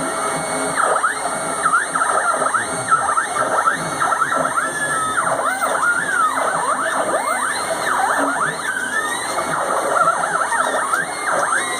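Stepper motors of a home-built three-axis CNC machine driving all three axes together, their whine sliding up and down in pitch many times as the axes speed up, slow and reverse.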